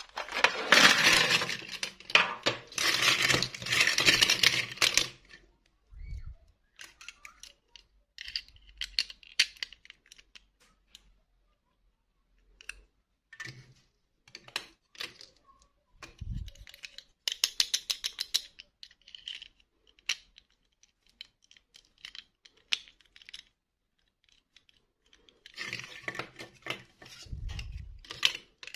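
Small hard plastic objects clicking and clattering as they are handled, with a dense, louder rattle for the first few seconds and scattered sharp clicks after it.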